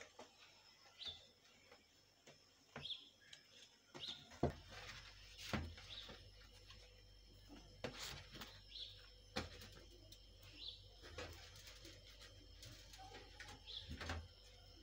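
Faint short bird chirps, repeated every second or two, with scattered soft clicks and knocks.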